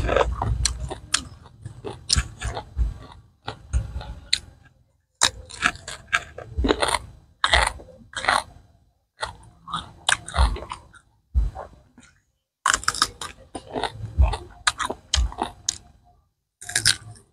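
Close-up chewing and crunching of crisp raw vegetables and leaf wraps with a pounded relish. The crunching comes in runs of quick bites separated by short pauses.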